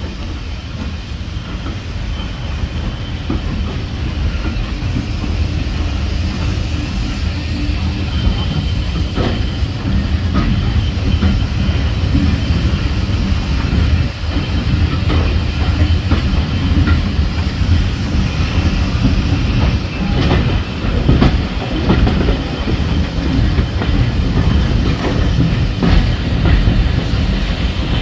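Passenger coaches of a steam-hauled heritage train running along the track, a heavy low rumble with wheels clicking over rail joints; the rumble grows louder over the first several seconds, then holds steady.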